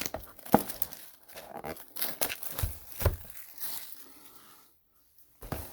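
Crinkling and tearing of plastic trading-card packaging being handled and opened, with a few sharp clicks and taps mixed in, dropping almost to silence briefly near the end.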